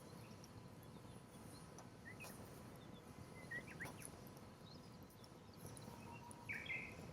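Quiet wood campfire with a few faint crackles, while small birds give short chirps, the loudest near the end.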